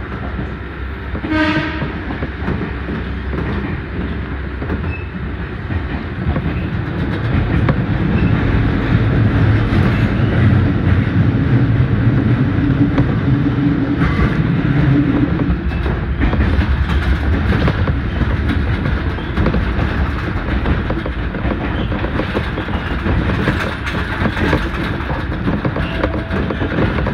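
Electric train of the Hokuriku Railroad Ishikawa Line running, heard from inside the car: a steady rumble with clicks over the rail joints, louder from about eight seconds in until about fifteen seconds. A brief high tone sounds about a second in.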